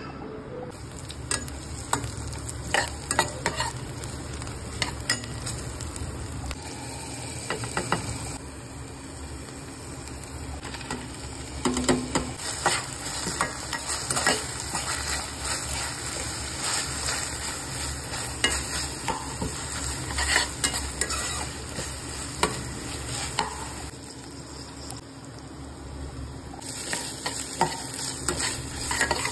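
Sliced onions, peanuts and green chillies sizzling in hot oil in a frying pan, with a spatula scraping and knocking against the pan in irregular clicks as they are stirred. The sizzle starts under a second in.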